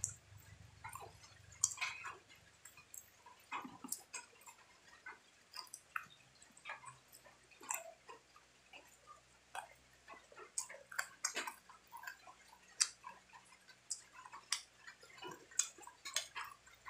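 Close-up eating sounds: irregular wet lip smacks and chewing clicks as meat is bitten and stripped off a bone with the teeth.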